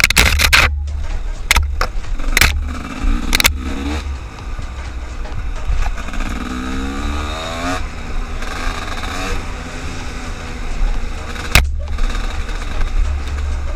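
A motor vehicle engine rising in pitch as it speeds up, once about three seconds in and again for about two seconds around the middle, over a constant heavy low rumble with sharp knocks.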